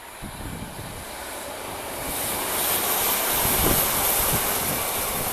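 Diesel passenger train passing close by: a rush of wheel-on-rail noise with a high hiss that builds about two seconds in, is loudest just past the middle, then eases slightly.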